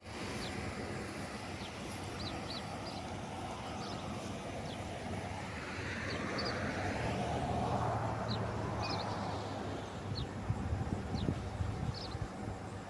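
Outdoor ambience: small birds chirping on and off throughout, with a vehicle passing by around the middle, its sound swelling and fading. Uneven bumps, like wind or handling on the microphone, come near the end.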